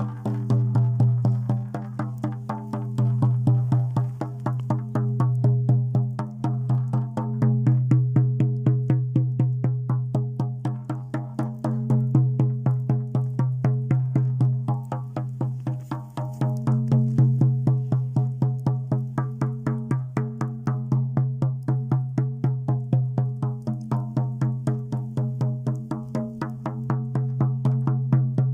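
A shaman's frame drum beaten in a fast, even pulse of about four strokes a second, with a steady low tone ringing under the beats. The drumming swells and eases every few seconds.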